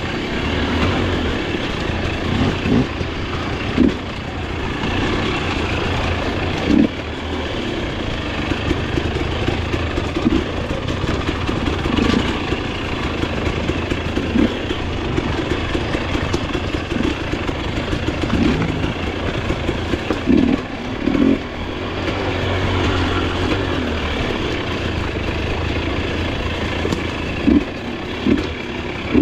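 Dirt bike engine running and revving up and down while riding rough trail, with brief loud knocks several times as the bike hits bumps.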